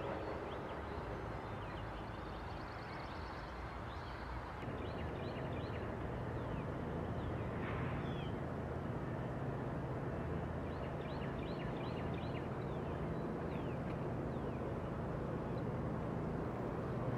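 A diesel train's horn dies away at the very start, then a steady low rumble of a train comes in about four and a half seconds in, with birds chirping over it.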